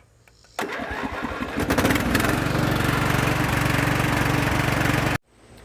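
John Deere Sabre riding mower's Briggs & Stratton engine cranking over on the electric starter, catching after about a second and a half, and running steadily. It spins through compression freely, a sign that the valves, now adjusted, let the automatic decompression work. The sound cuts off abruptly near the end.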